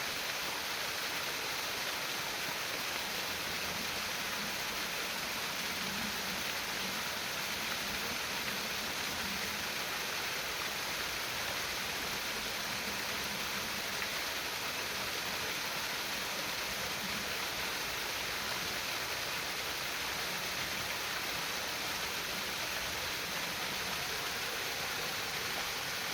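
Water trickling and babbling steadily over stones in a small stream, an even rushing hiss with no breaks.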